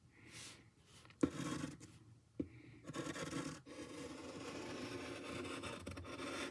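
Pencil scratching across paper as lines are drawn: a short stroke about a second in, another a second later, then steady back-and-forth scratching from about three seconds in.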